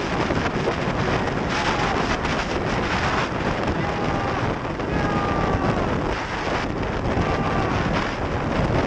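Heavy wind rush buffeting the camera microphone of a moving motorcycle, with vehicle noise underneath. A few faint short whining tones come through around the middle.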